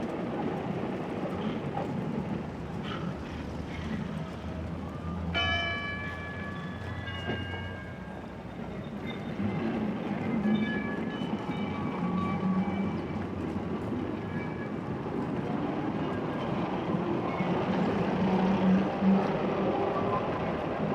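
Sound-design ambience of a tram running on rails, a steady rumble throughout, with a short ringing tone that starts suddenly about five seconds in and a few fainter tones after it.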